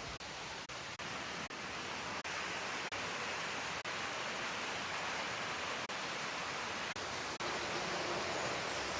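Flowing water rushing steadily, cut by brief dropouts every second or so.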